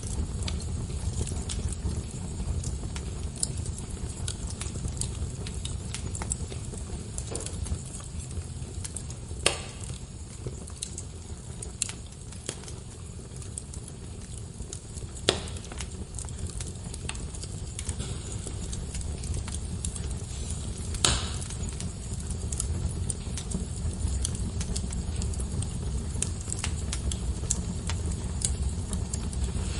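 Wood fire burning in a fireplace: a steady low rumble of flames under constant small crackles, with three louder pops spaced several seconds apart.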